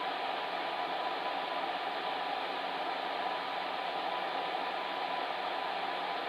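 Fan heater running steadily: an even whooshing noise from its fan and airflow with a faint constant hum, no change throughout.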